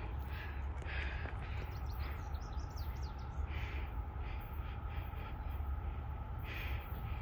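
Small birds chirping in short calls, with a cluster of quick falling chirps two to three seconds in, over a steady low rumble.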